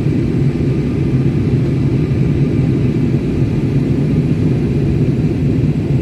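Steady low drone of an airliner's engines and airflow, heard from inside the passenger cabin during the climb after takeoff.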